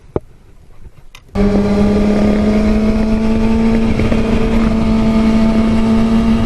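A vehicle engine runs at steady revs with road and wind noise, starting abruptly about a second in after a near-quiet moment with a single click.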